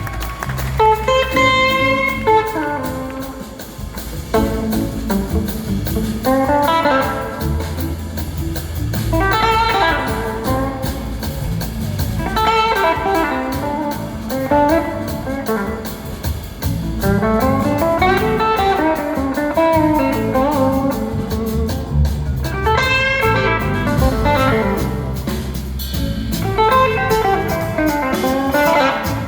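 Live blues-rock band: an electric guitar plays a lead line of bending, gliding notes over bass and drums.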